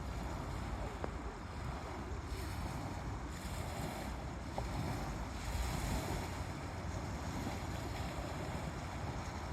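Gentle waves breaking and washing up on a shore, a steady hiss that swells twice, with wind rumbling on the microphone.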